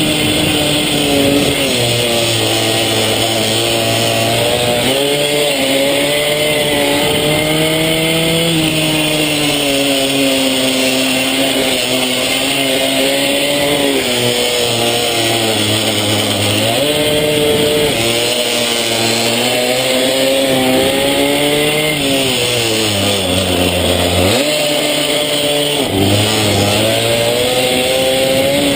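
Small pit bike engine being ridden hard, its pitch climbing under acceleration and falling off repeatedly, with a deep drop in revs near the middle and another about three quarters of the way through.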